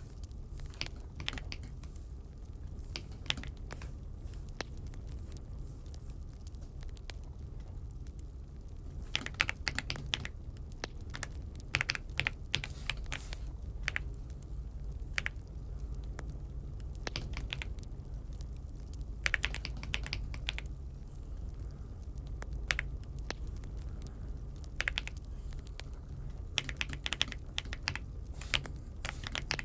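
Typing on an Aula F75 mechanical keyboard: quick runs of key clicks in irregular bursts with short pauses between, over a low steady hum.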